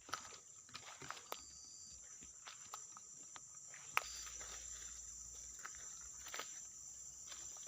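Footsteps and handling noise in forest undergrowth, irregular light snaps and rustles, over a steady high-pitched insect drone.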